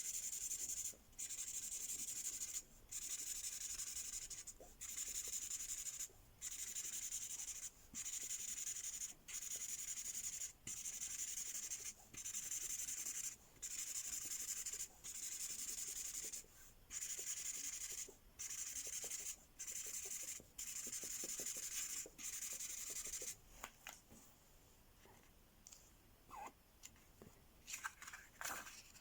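Felt-tip Imagine Ink marker scribbling on paper in a steady series of scratchy colouring strokes, each about a second and a half long with short pauses between. The strokes stop a few seconds before the end, leaving a few faint taps.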